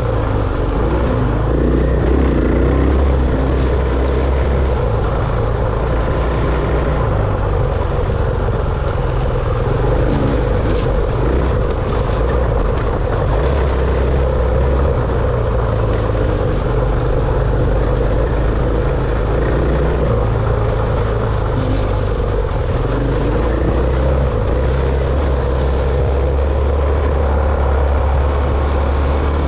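Dirt bike engine running under way, its low note shifting up and down every few seconds as the throttle changes.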